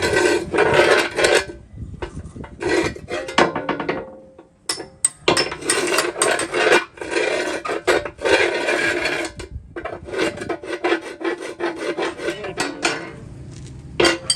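Rough scraping on metal in repeated strokes, each lasting a second or two with short pauses between them.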